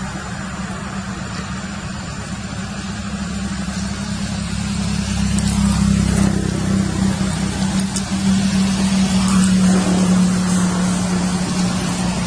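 A motor vehicle's engine running steadily as a low hum, growing louder about halfway through.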